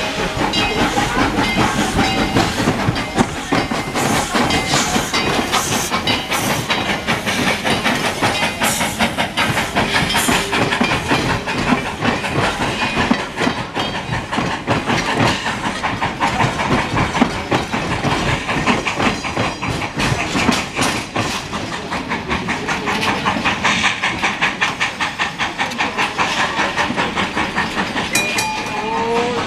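Passenger train of old wooden coaches rolling past over a level crossing: continuous wheel clatter and rumble on the rails, with a dense rapid clicking from the wheels and track.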